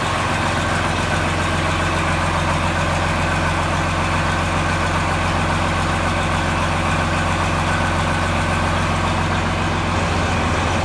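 John Deere 4020's six-cylinder diesel engine running steadily just after a cold start in freezing weather, still cold; it is shut off at the very end.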